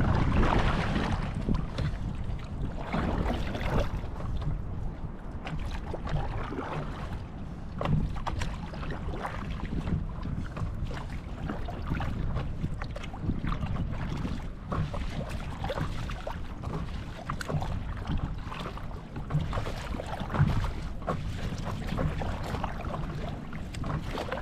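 Wind rumbling on the microphone over choppy lake water, with water splashing and slapping around a paddle board in irregular bursts.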